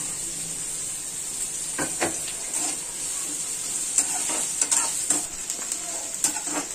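Chopped onions sizzling in hot mustard oil in a metal kadhai, a steady frying hiss, with a spatula scraping and knocking against the pan several times as the onions are stirred.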